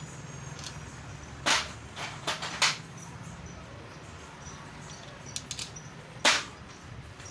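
Sharp knocks and clicks of engine parts and tools being handled during a motorcycle timing-chain repair: one knock about one and a half seconds in, a quick cluster of three soon after, a few light clicks near five seconds, and one loud knock about six seconds in. A steady low hum runs underneath.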